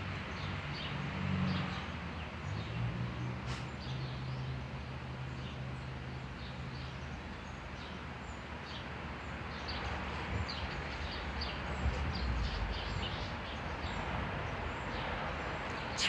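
Small birds chirping in short, high calls scattered throughout, over a steady background of outdoor noise. A low steady hum runs through the first half.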